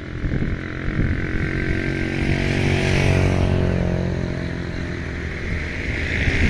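Departing passenger train running close by: a steady mechanical drone from its locomotive, with a whine that shifts in pitch about halfway through.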